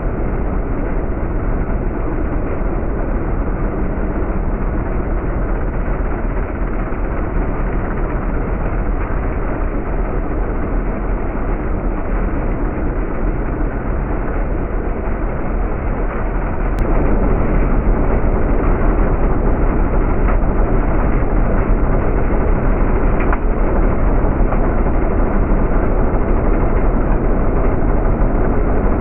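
Powerhorse 420cc chipper/shredder's gasoline engine running steadily while wood is fed through for chipping. The sound gets louder about 17 seconds in and holds there.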